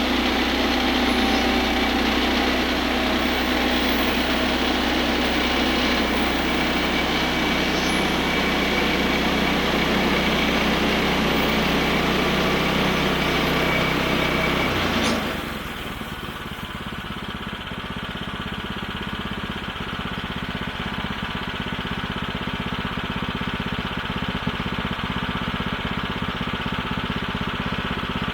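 Woodland Mills bandsaw mill running, its gas engine driving the band blade through a log with a dense, loud sawing noise. About halfway through, the sound drops suddenly and the engine runs on at a quieter, steadier note.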